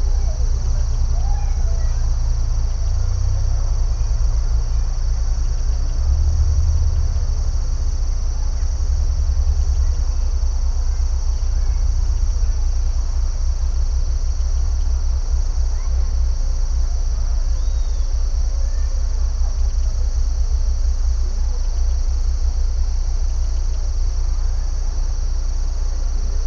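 Insects trilling in a steady, unbroken chorus over a constant low rumble, with a few faint short chirps.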